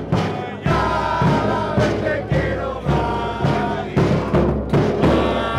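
Football fans singing a chant together over a steady bass drum beat, about two beats a second.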